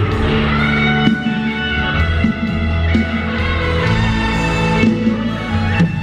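Live band music with guitar to the fore, played without vocals, as the instrumental part of a song.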